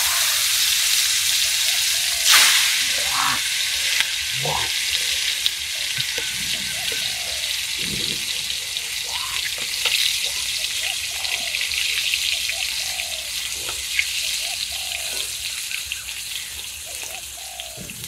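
Food frying in hot oil in a pan: a steady sizzle with fine crackling that eases off gradually near the end.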